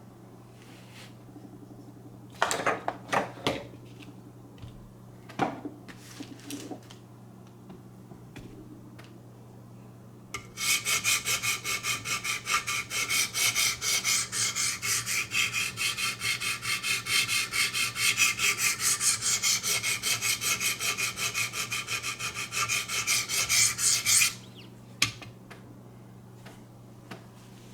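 Wicked Edge guided sharpener's 200-grit diamond stones grinding a VG-10 knife edge: a few separate scrapes at first, then a long run of rapid, even back-and-forth strokes with a gritty hiss, several a second, that stops abruptly.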